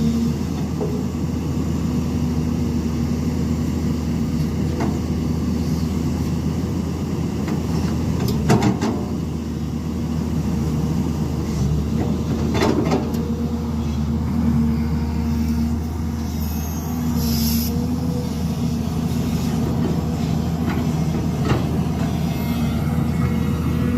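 Heavy construction machinery engine running steadily, with a constant low hum and a few short metallic knocks and clanks.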